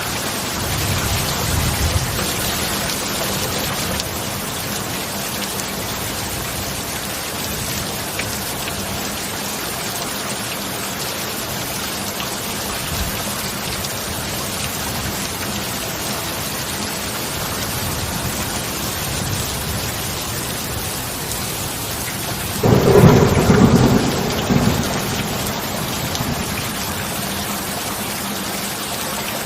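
Steady heavy rain with thunder: a low rumble in the first couple of seconds, then a sudden loud thunderclap about 23 seconds in that rolls away over a few seconds.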